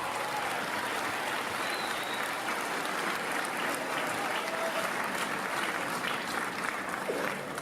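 Theatre audience applauding steadily at the end of a song, with a few scattered shouts in the crowd.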